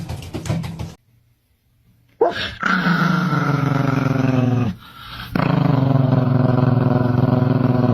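A dog growling in two long, drawn-out grumbles, the first about two and a half seconds and the second about three.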